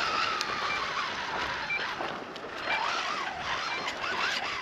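Brushless electric motor of a Losi Tenacity TT Pro RC truck whining as it is driven, its pitch rising and falling with the throttle, over wind noise. A short high beep repeats about once a second, the low-battery warning from its nearly drained 3S LiPo.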